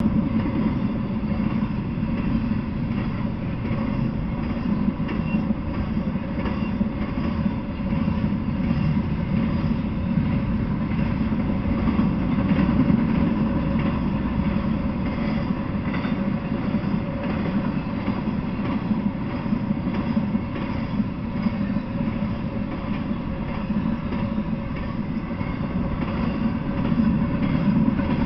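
Intermodal freight train rolling past on flatcars loaded with containers and trailers: a steady rumble of steel wheels on rail, with light clicks as the wheels cross rail joints.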